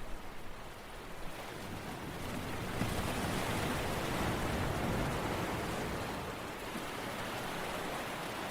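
A steady rushing noise that swells a few seconds in and then eases off.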